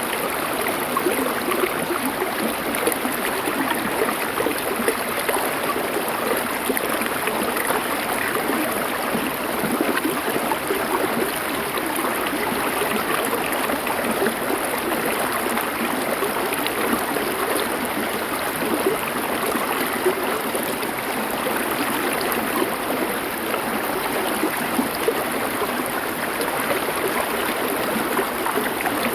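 Small river or stream flowing over stones, a steady, even rush of water with no change.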